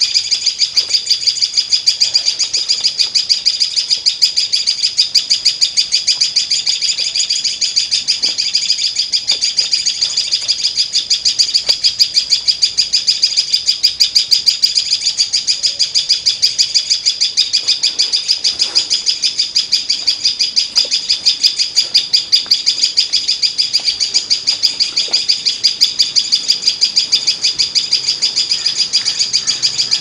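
Small songbird giving a fast, unbroken series of high, loud chirps: alarm calls of a parent bird at a person standing near its fledgling.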